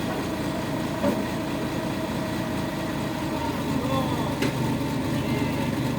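Dump truck engine idling steadily, with people's voices underneath and one sharp click a little over four seconds in.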